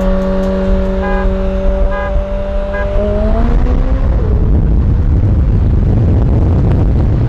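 A car engine running at steady revs while three short beeps about a second apart count down a race start. About three seconds in the engine note climbs, then the sound turns into a loud, dense rush as the car accelerates hard.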